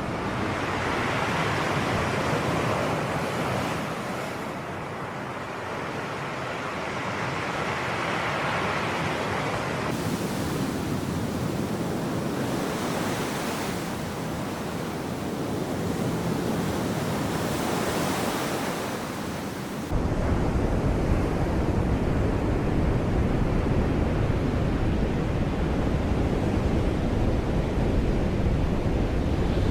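Sea waves washing onto the shore, the surf swelling and easing every few seconds. About two-thirds of the way through, a low rumble of wind on the microphone sets in suddenly.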